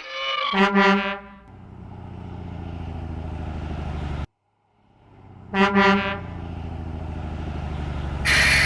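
Garbage truck sound effects: a quick double honk of the horn followed by the engine running, which cuts off suddenly about four seconds in. The double honk and running engine then repeat, ending in a loud burst of hiss near the end.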